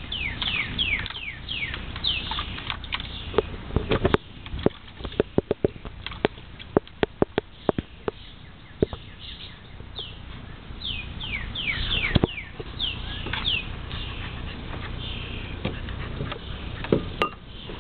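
A puppy pawing and splashing in its water bowl: a quick run of sharp slaps and knocks in the middle. Birds chirp in the background, with short falling chirps near the start and again about two-thirds through.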